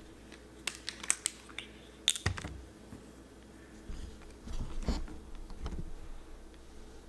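Scattered light clicks and knocks, some in quick pairs, over a faint low hum.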